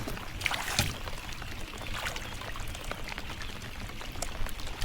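Water splashing and trickling close by, with small irregular splashes and drips.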